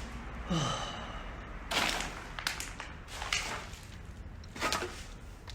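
Several irregular footsteps or scuffs crunching on gravel and debris, each a short rough noise, with a brief falling tone about half a second in.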